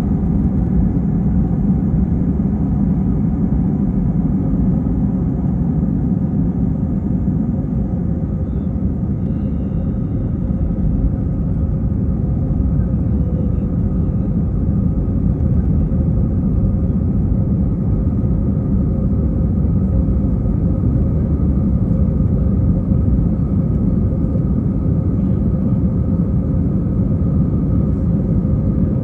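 Airbus A320 cabin noise: the steady, deep rumble of the jet engines and airflow heard from inside the cabin, with a faint steady hum above it.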